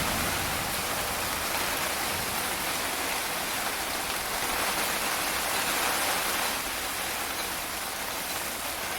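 Heavy rain pouring down in a steady downpour during a storm.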